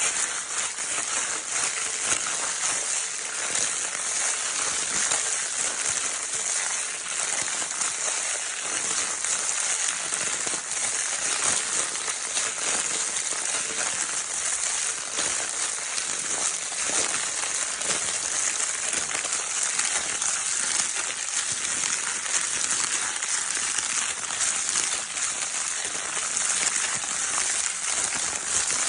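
Crinkle paper of a baby's crinkle toy being crumpled and rustled continuously, a dense, even crackling without pauses.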